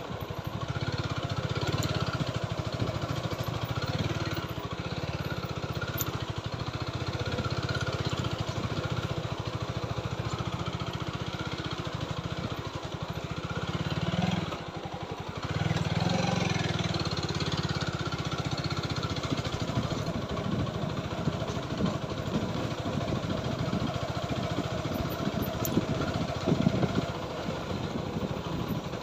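TVS Apache motorcycle's single-cylinder engine running steadily while the bike is ridden, dropping in level briefly about halfway through.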